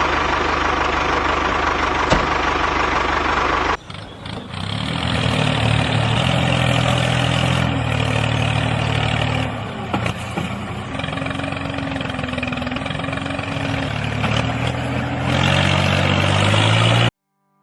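An engine running steadily. It drops out briefly about four seconds in, returns with a slightly wavering pitch, and cuts off suddenly near the end.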